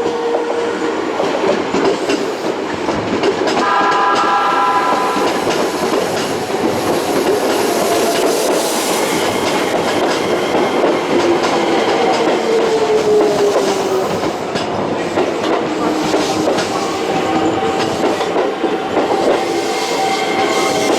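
Electric train running through the station, its wheels clacking over the rail joints. A short horn sounds about four seconds in, and a motor whine falls in pitch in the middle.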